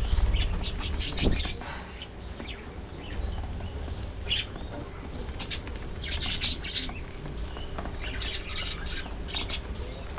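A flock of budgerigars chirping and chattering in scattered bursts of short, high chirps, over a steady low rumble.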